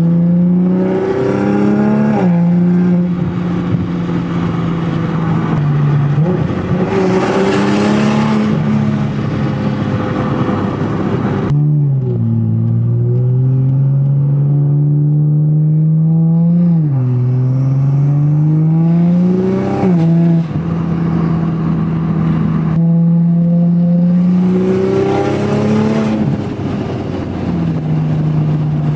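Straight-piped exhaust of a 2020 Toyota Supra's B58 turbocharged 3.0-litre inline-six, heard while driving. The engine note holds steady for stretches, climbs, and drops sharply several times, as at gear changes, with louder, rougher surges of exhaust on throttle.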